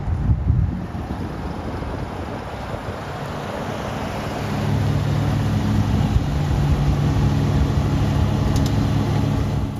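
The 1956 Chevrolet Bel Air's 265 cu in V8 running, with a low rumble. About halfway through it settles into a steadier, slightly louder engine note.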